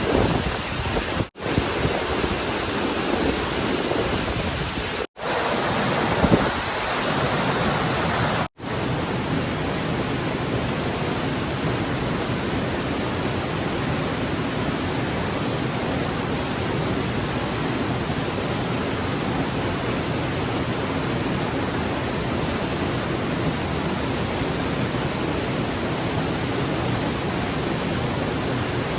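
Rushing stream water, a loud steady rush. It cuts out abruptly three times in the first nine seconds, then continues unbroken.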